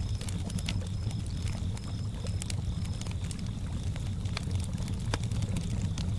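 Campfire crackling with scattered sharp pops over a steady low rumble of lake water. Crickets chirp in a quick even rhythm, a few chirps a second, until about halfway through, over a steady high insect trill.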